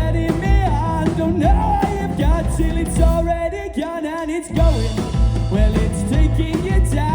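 Live rock band playing a song: a singer's voice carries the melody over guitar, bass and a steady kick drum. The bass and drums drop out for about half a second around four seconds in, then come back.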